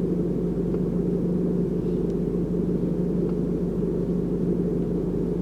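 Steady low rumble with a constant low hum underneath, unchanging in level throughout.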